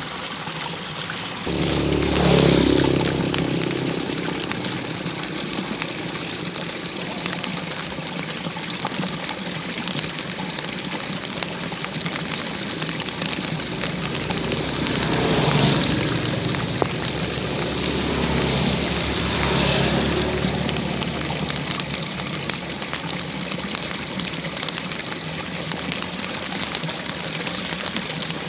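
Steady rain and running water in a roadside ditch. A motor vehicle passes about two seconds in, and engine sound swells again in the middle of the stretch.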